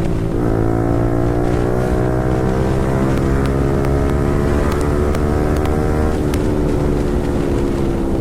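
Yamaha R15 V4's single-cylinder engine running through an Akrapovic full-system exhaust under way. The note steps up about half a second in and climbs under throttle, changes sharply about six seconds in at a gear change, then eases down.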